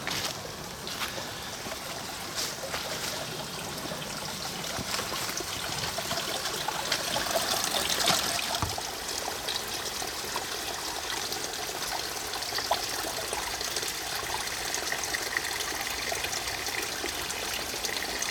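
Small stream trickling, with water gurgling into a soft water bag held in the current to fill it.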